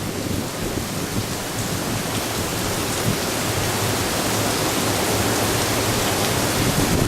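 Typhoon downpour of heavy rain driven by strong wind: a dense, steady hiss that grows a little louder partway through.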